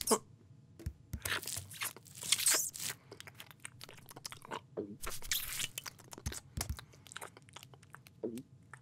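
Cartoon sound effect of a cat crunching and chewing food in short, irregular bites.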